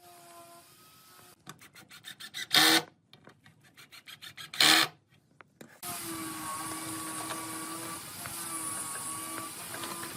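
Wood being worked by hand: a quick run of short scraping strokes broken by two louder bursts, then, from about six seconds in, a steady rubbing noise with a faint hum.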